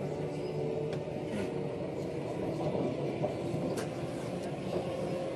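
Steady running noise of a Queensland Rail Tilt Train heard from inside the carriage as it travels, with a few faint clicks.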